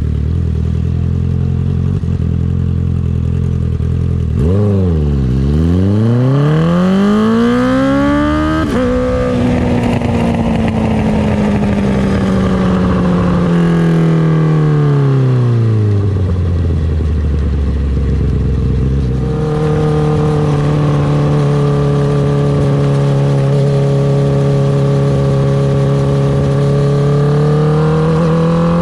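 2019 Honda CB650R's inline-four through an Akrapovic titanium exhaust: running low at first, then accelerating with the pitch climbing steeply, a gear change about nine seconds in, and a long slow fall in revs. From about two-thirds through it holds a steady higher note while cruising, rising slightly near the end.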